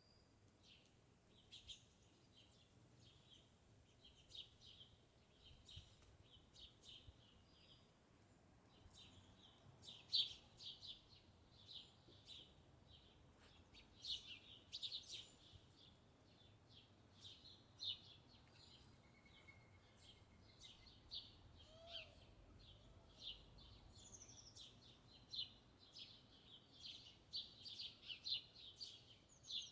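Small birds chirping and twittering, many short high notes and brief trills coming in quick irregular runs, with a few louder calls mixed in.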